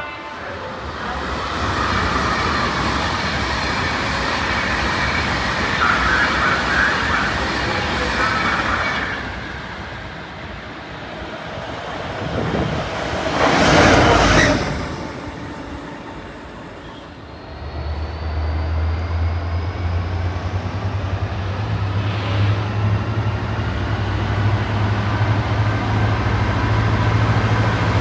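Train noise at a railway station, with a loud rushing burst about thirteen seconds in. From about eighteen seconds a locomotive sits running with a deep steady drone and a faint rising whine.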